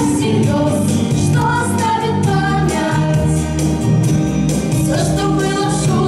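Young female voices singing a pop song over instrumental accompaniment with a steady beat.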